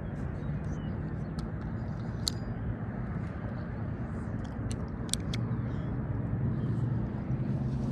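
Steady low rumble with a faint hum, broken by a few short, sharp clicks.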